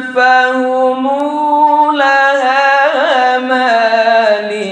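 A man's voice reciting the Quran in melodic tajwid, drawing each word out over long held, ornamented notes. The pitch sinks step by step in the second half.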